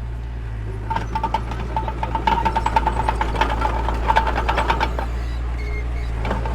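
Diesel engine of a small bulldozer running steadily, with a fast metallic clatter over it from about a second in that fades around five seconds.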